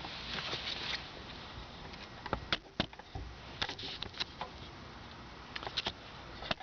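Handling noise: scattered sharp clicks and light knocks as the oil extractor and its containers are handled.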